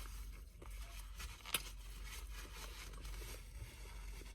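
Faint close-up chewing with small, irregular mouth clicks as someone eats a burger, and one sharp click about a second and a half in.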